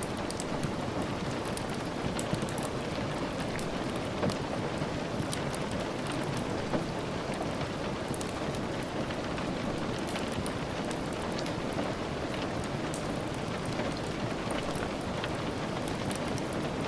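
Steady rain falling as an even hiss, dotted throughout with small sharp ticks and pops.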